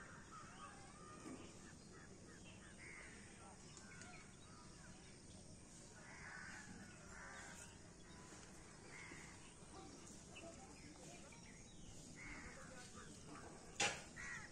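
Faint outdoor quiet with distant birds calling now and then, crow-like caws. A single sharp click near the end.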